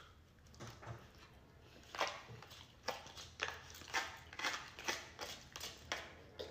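Chewing and smacking of food, short wet strokes about two a second, starting about two seconds in.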